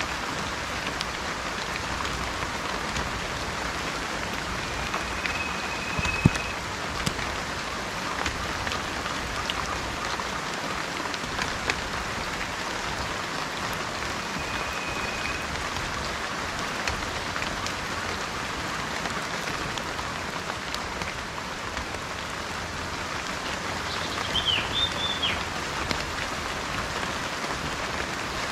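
Steady rain falling, with individual drops ticking now and then. A bird gives a short level whistle twice and a quick warbling call near the end.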